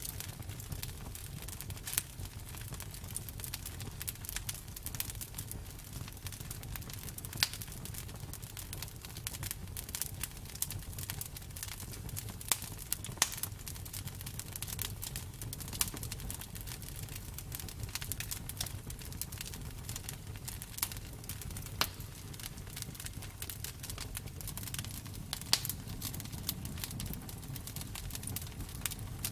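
Campfire burning: a steady low rumble of the flames with scattered sharp crackles and pops of the burning wood.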